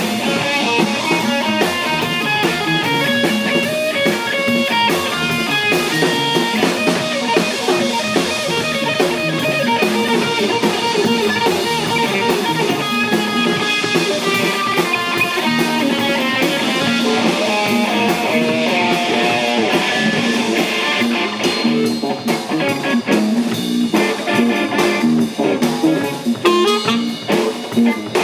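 A band playing soul jazz live: electric guitar lines over a drum kit. About 22 seconds in, the playing turns choppier, in short stabs.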